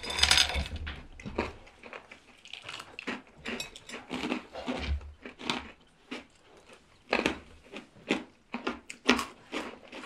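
People chewing and crunching hard, dry hardtack biscuits (geonppang) in quick mouthfuls, with many short, irregular crunches.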